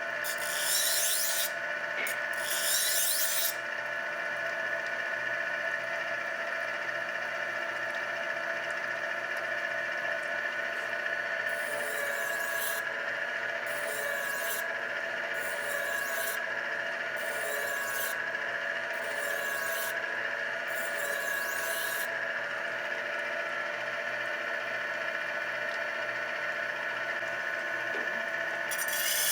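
Tru Hone HR8 electric knife honer running with a steady motor hum, as a knife blade is drawn through its honing wheels in short rasping strokes: a couple near the start, then a regular run of about seven strokes, one every second and a half or so.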